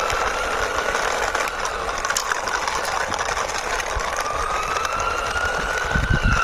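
Toy ambulance siren wailing, a slow tone that rises in pitch over a few seconds, fades, then rises again, over a steady rattling whir; a few low thumps near the end.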